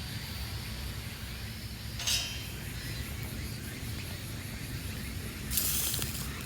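Food on a grill over a small charcoal tabletop fire pit, with a short clink about two seconds in, then a loud hissing sizzle that starts near the end, under a steady low rumble.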